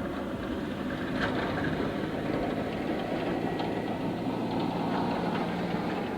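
Snowplow truck's engine running as it drives past, plowing snow; it grows louder about a second in and stays steady.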